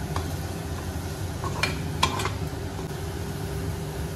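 Chopped onions and curry leaves frying in oil in a non-stick kadai, sizzling as a perforated spatula stirs them in with turmeric. A few sharp taps of the spatula against the pan come around the middle.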